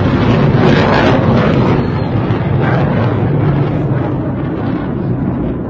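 Roar of an air defence missile's rocket motor: a loud, continuous rumble that slowly fades from about two seconds in.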